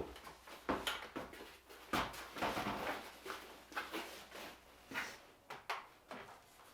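Irregular knocks, clatters and rustles of objects being handled and set down in a small room.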